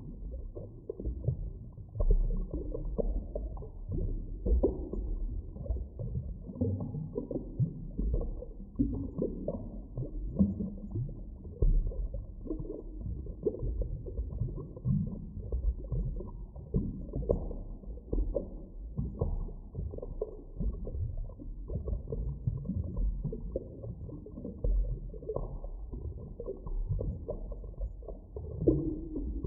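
Muffled underwater ambience: a constant deep rumble with irregular soft knocks and occasional short gliding tones, with nothing bright or high-pitched in it.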